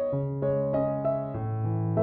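Background music: a gentle piano or electric-piano tune, with a held bass note under a melody of notes changing every quarter to half second.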